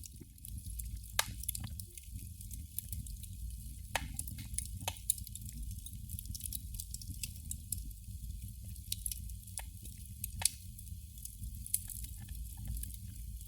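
Candle flame crackling: irregular small pops and ticks, a few louder ones a few seconds apart, over a steady low rumble.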